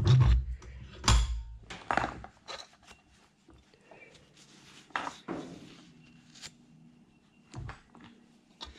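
Metal parts being handled and knocked on a workbench: a series of separate clanks and thunks, the loudest in the first two seconds, with a few lighter knocks after.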